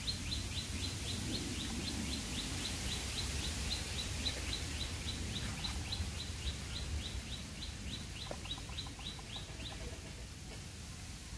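A bird calling in a long steady series of short, high, down-slurred notes, about three or four a second, stopping shortly before the end, over a steady low background rumble.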